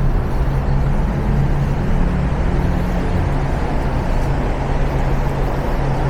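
Steady road traffic on a busy city avenue: cars and buses passing in a continuous low rumble, with no single vehicle standing out.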